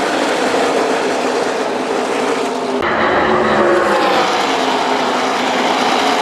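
A pack of NASCAR trucks racing past at full speed, many V8 engines running together in one loud, dense sound, their pitches sliding gently down as they go by. The sound changes abruptly just before the halfway point.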